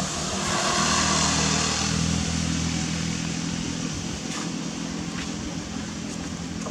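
A motor vehicle engine running with a steady hum, swelling about a second in and then settling.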